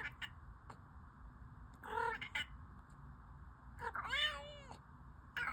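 Domestic cat meowing three times: a short meow about two seconds in, a longer, wavering one around four seconds, and another starting at the end.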